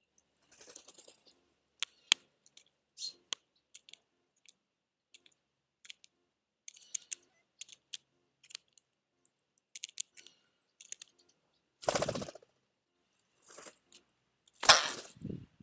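A squirrel and small birds feeding at a feeding place: scattered sharp clicks and crunches of seeds and nuts being pecked and gnawed, with two louder scraping rustles near the end.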